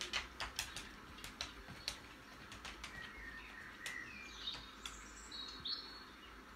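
Small birds chirping from a garden-bird video played through a television's speakers: a few short high chirps and glides in the second half. Before them comes a quick run of sharp taps in the first two seconds.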